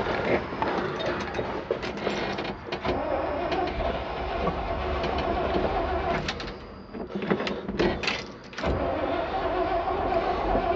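Starter motor cranking a Chevrolet 327 V8 that does not fire, in two long cranks with a short break about two-thirds of the way through; the engine won't catch and needs more ether.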